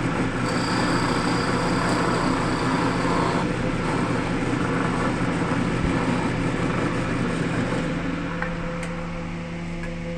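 Wood lathe running, with a rushing noise from the spinning wood being worked that eases about eight seconds in.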